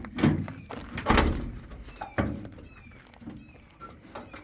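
Three dull thunks about a second apart, from tools and parts being handled during work on the pickup, with a few faint short squeaks between them.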